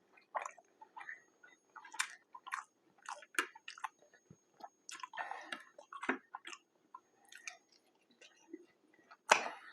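Close-miked chewing of a burger: irregular wet mouth clicks and smacks, with a louder bite or smack just before the end.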